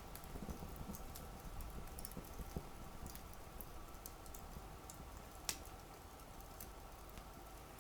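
Campfire crackling softly, with scattered small snaps and one sharper pop about five and a half seconds in.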